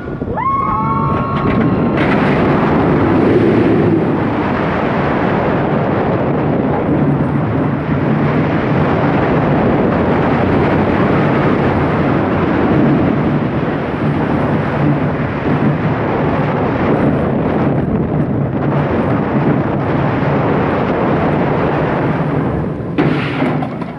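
Loud wind rushing over the microphone, with the rumble of the SheiKra dive coaster's train on its steel track as it runs through the course at speed.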